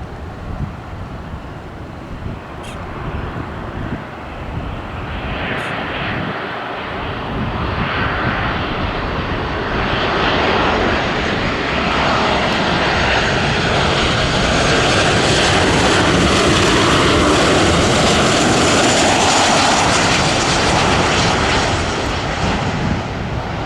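Jet airliner's engines passing by, a broad rushing roar that builds over several seconds to a peak about two-thirds of the way through, then begins to ease.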